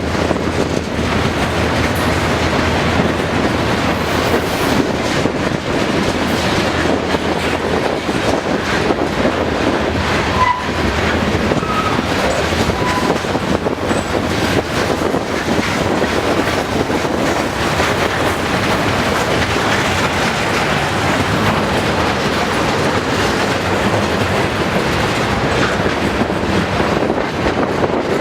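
Freight cars of a passing manifest train rolling by, with steady wheel-on-rail noise and clickety-clack over the rail joints. A few brief, faint wheel squeals come about ten to thirteen seconds in.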